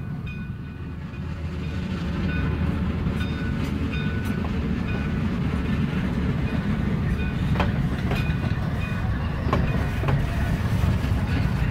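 A train running: a steady low rumble, with a few sharp clicks in the second half like wheels crossing rail joints.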